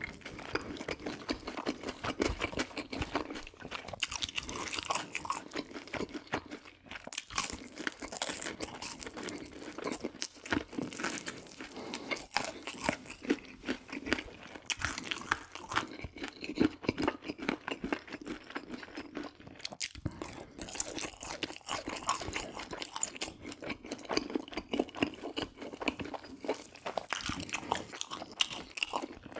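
Close-up crunching and chewing of crispy fried chicken, many quick crackly bites and chews in an irregular run.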